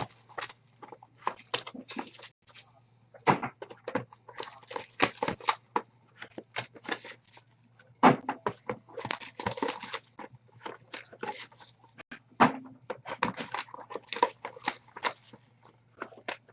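Hands rustling and crinkling packaging, with irregular clicks and short crackling bursts that come and go in clusters, over a faint low electrical hum.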